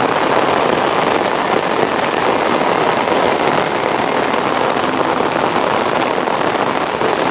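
Heavy rain falling steadily, an even, dense hiss of downpour with no let-up.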